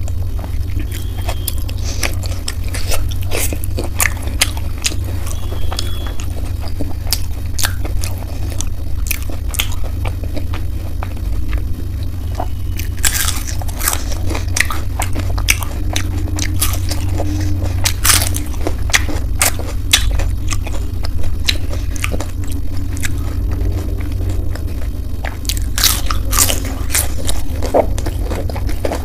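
Close-miked eating: sharp crunching bites and chewing of crisp fried jalebi, many crunches throughout, over a steady low hum.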